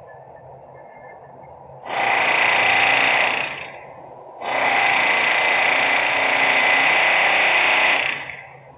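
Two loud bursts of harsh, grating machine noise from industrial equipment, the first about a second and a half long, the second nearly four seconds, each starting and stopping abruptly over a steady low background drone.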